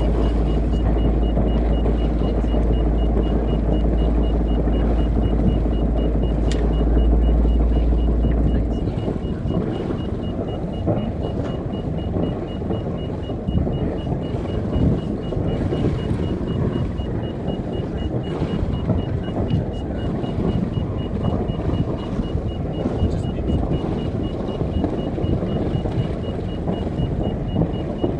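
A Moody 36 yacht's inboard diesel engine running while the boat manoeuvres onto a berth, with a strong deep drone that drops away about nine seconds in, leaving a rougher, lower rumble. A faint, fast, regular high-pitched beeping sounds throughout.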